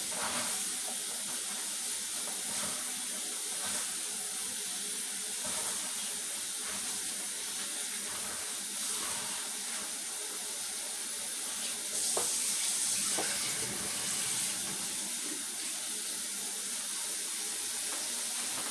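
Kitchen tap running steadily into a bowl of cut cabbage in the sink, rinsing it. The flow sounds a little louder for a moment about twelve seconds in.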